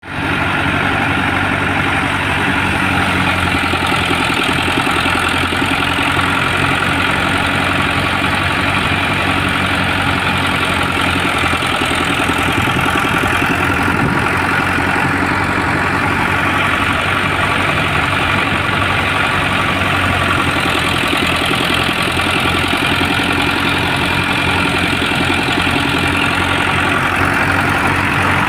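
Tractor running a thresher that is threshing mustard: the engine's steady low drone under a constant rushing noise from the machine, unchanging throughout.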